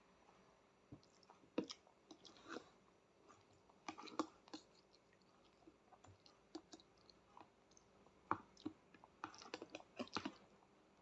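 A small child chewing and eating pasta: faint, scattered mouth smacks and short clicks that come in small clusters.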